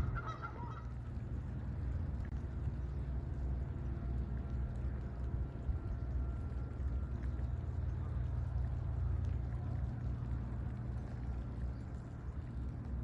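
A few honking bird calls that stop about a second in, followed by a steady low rumble.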